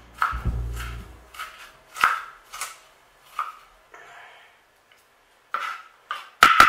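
Kitchen knife chopping onion on a wooden cutting board: a series of short sharp chops about every half second, breaking off briefly past the middle, with the loudest chops near the end.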